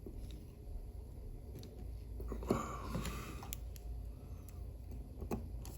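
A few faint, sharp clicks of small metal watchmaker's tools against a watch movement, over a steady low room hum.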